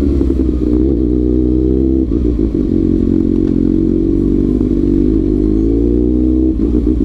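Kawasaki ZX-6R inline-four engine running while riding, its note holding fairly steady with a change in pitch about two seconds in and again near the end, as the throttle or gear changes.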